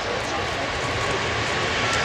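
Jet engine noise of an Airbus A380's four engines, a broad roar growing steadily louder.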